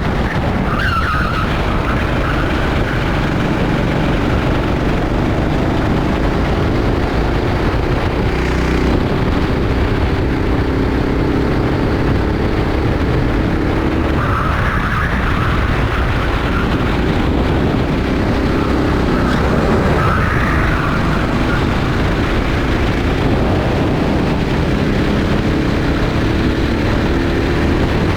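Rental go-kart engine running at racing speed, its pitch climbing steadily for long stretches and then dropping back. Tyres squeal briefly a few times: about a second in, and again around the middle.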